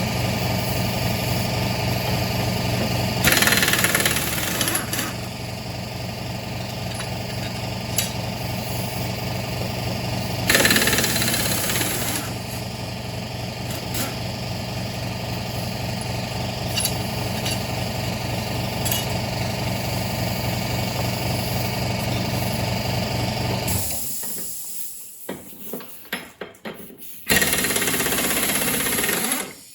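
Lawnmower engine running steadily, with two brief louder rushes, then shutting off about 24 seconds in; a short loud rushing noise comes near the end.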